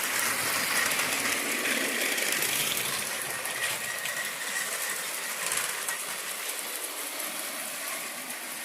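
Vintage Lego set 182 battery-powered train running along its plastic track, its small electric motor whirring with a steady high whine. The sound is loudest in the first few seconds, then slowly grows fainter.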